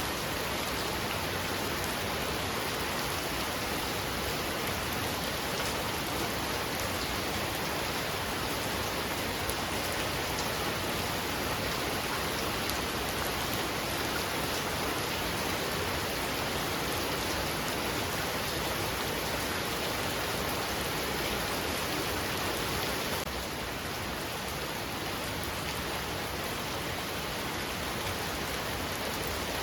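Heavy rain falling steadily, a dense even hiss of drops on surfaces, easing slightly about three-quarters of the way through.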